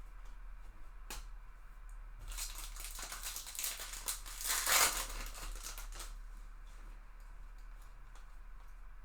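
Foil wrapper of a Topps Chrome trading-card pack crinkling as it is torn open, with a few light clicks of cards being handled. The crinkling swells a couple of seconds in, is loudest near the middle and dies away after about six seconds.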